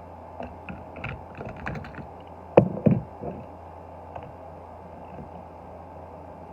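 A run of light clicks and taps of small die-cast toy cars being handled, with two louder knocks close together about halfway through, over a steady low hum.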